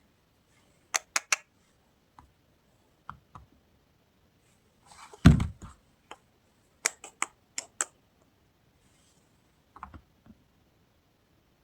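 Soap bars and their packaging being handled: clusters of sharp taps and clicks, with one louder thud about five seconds in.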